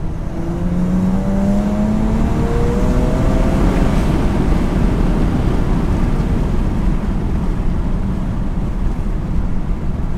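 BMW N54 twin-turbo inline-six, fitted with CTS Stage 2+ turbos and catless downpipes, under full throttle in third gear, heard from inside the cabin. The engine note rises steadily in pitch for about four seconds, then merges into a loud, steady rush of noise.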